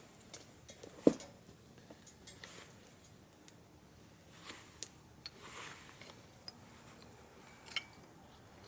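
Wood fire crackling in a small metal wood stove burning chopsticks and scrap wood: scattered pops and ticks, with one louder knock about a second in.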